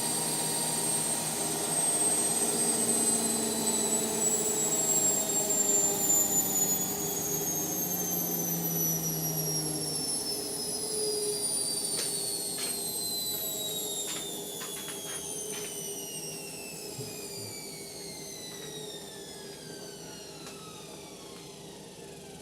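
Indesit washing machine's drum spinning down at the end of a spin: the motor's high whine falls steadily in pitch and fades as the drum slows, with a few light clicks partway through.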